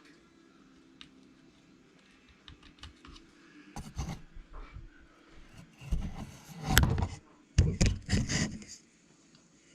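Clicks and knocks of plastic parts and tools being handled. A few scattered clicks come first, then a busy cluster of handling noise about four seconds in, loudest around seven to eight seconds, stopping just before the end.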